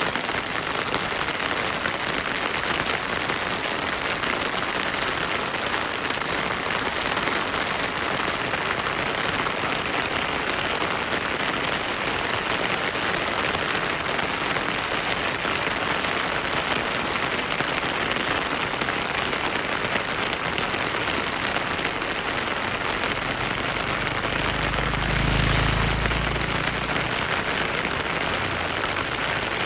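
Heavy rain falling steadily, a dense even hiss of drops. A brief low rumble swells up near the end.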